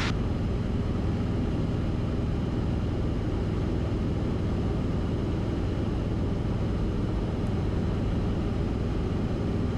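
Cessna 172RG's four-cylinder Lycoming engine and constant-speed propeller running steadily, heard inside the cabin as an even low drone, throttled back for the landing approach.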